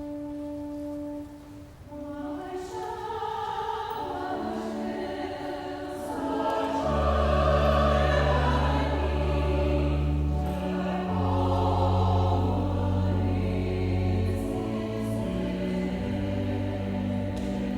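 Choir singing offertory music with accompaniment; low sustained bass notes enter about seven seconds in and the music swells.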